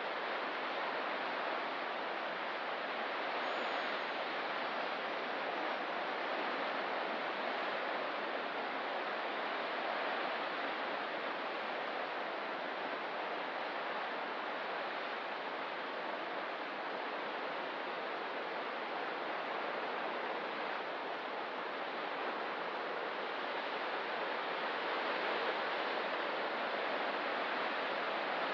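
Ocean surf breaking and washing on a rocky coast: a continuous rushing hiss that swells and eases gently.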